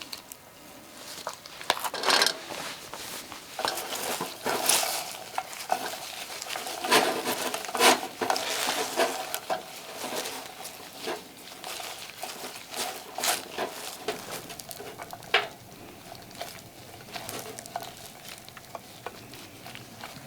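Stir-frying webfoot octopus with chives in a pan: a utensil scraping and clinking irregularly against the pan, with the food sizzling faintly underneath. The stirring is busiest in the first half.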